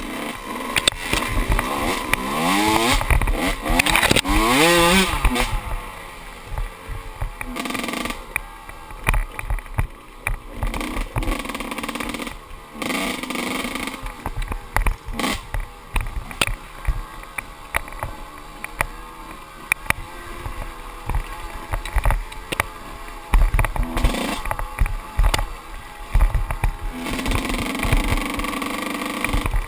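Kawasaki KX125 two-stroke dirt bike engine revving hard and rising and falling with the throttle while riding, with a steep rising rev about two to five seconds in. Frequent sharp knocks and rattles run through it.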